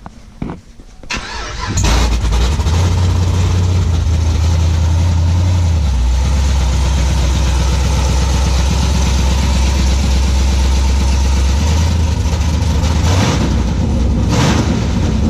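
Cammed 2014 Camaro SS V8 started on open headers with no exhaust fitted: it catches about a second and a half in and runs very loud. It holds a faster idle for a few seconds, then settles to a lower idle, with two short blips of throttle near the end.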